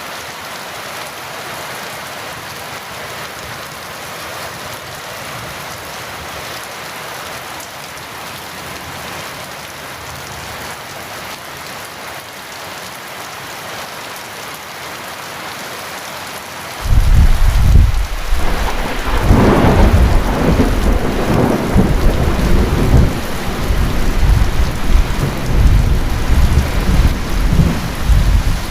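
Heavy rain falling steadily. About two-thirds of the way through, a sudden loud, deep rumble of thunder breaks in, with a sharper crack a couple of seconds later, and keeps rolling under the rain to the end.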